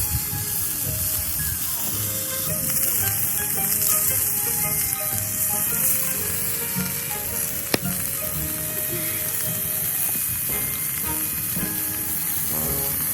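Meat sizzling steadily as it grills, a continuous high hiss, with one sharp click about three-quarters of the way through. Background music plays underneath.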